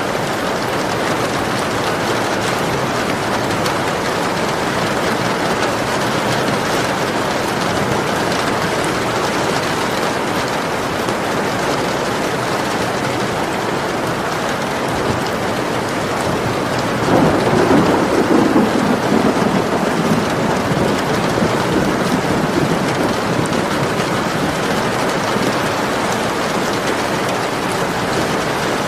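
Steady rain falling, with a roll of thunder that breaks in past the middle, loudest for a couple of seconds and then rumbling away.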